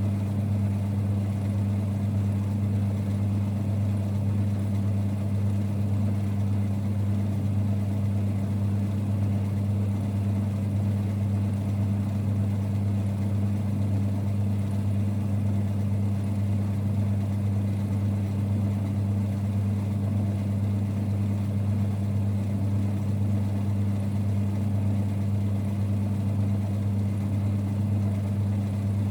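1946 Boxford lathe running steadily with a constant low rumble and hum, holding two low tones one above the other with no change in speed or load.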